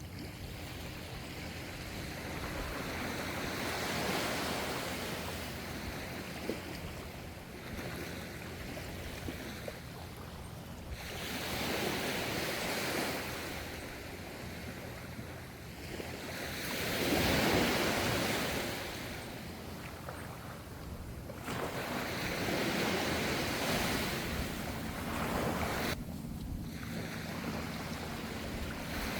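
Ocean waves washing onto the shore in slow surges, each swelling and fading over several seconds; the biggest wash comes about two-thirds of the way through.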